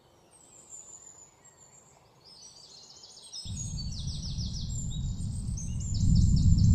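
Birds chirping and trilling in repeated quick phrases, with a deep rumble that comes in about halfway and grows steadily louder.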